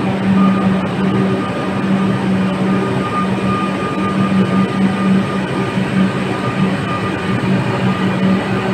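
Electric suburban train, its steady running noise carrying a low hum and a fainter high-pitched whine.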